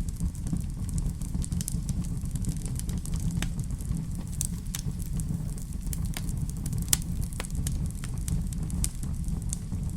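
Wood fire burning in a fireplace: a steady low rumble of flames with frequent irregular crackles and pops, one sharper pop about seven seconds in.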